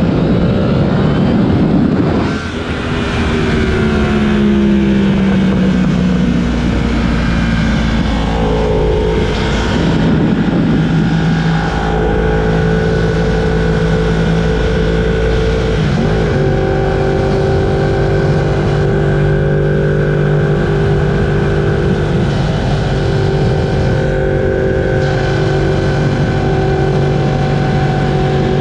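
Yamaha R1 crossplane inline-four engine on the move: revs rise and drop about two seconds in, fall away, climb again around ten seconds, then hold a steady pitch while cruising, with wind rumble underneath.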